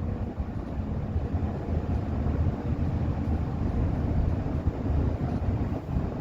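Steady low rumble of a bus's engine and tyres on the road, heard from inside the moving bus.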